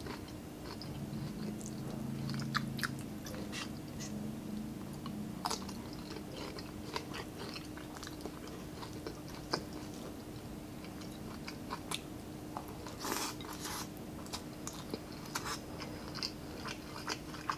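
Close-miked chewing of crispy fried pork (pinaputok) and rice, with wet mouth sounds and sharp crunches scattered throughout, a denser run of crunching about thirteen seconds in. A faint steady hum lies underneath.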